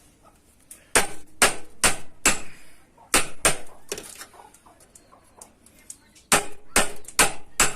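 Hammer striking sheet metal in quick runs of three or four blows, each with a short bright ring, with pauses of a second or two between the runs.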